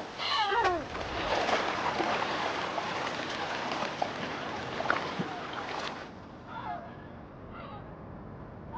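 Water splashing and sloshing in shallow water for several seconds, with scattered small knocks. Wavering, high animal calls sound at the very start, and fainter ones come near the end.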